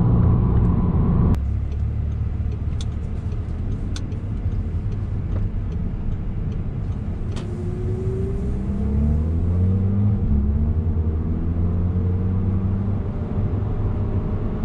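In-cabin sound of a 2011 Audi TT quattro's 2.0-litre turbocharged four-cylinder (EA888 TFSI) under way. A louder stretch drops away abruptly about a second in, then the engine runs steadily until, about eight seconds in, the throttle goes to the floor and its note rises on a full-throttle pull in second gear.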